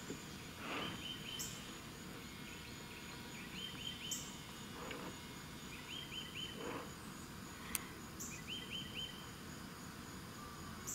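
Faint outdoor ambience with a songbird repeating a short phrase of quick, high notes about every two to three seconds. Brief higher chirps and a single sharp click come in between.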